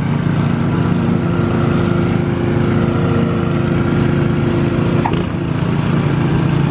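Small engine of a snowblower running steadily at a constant speed.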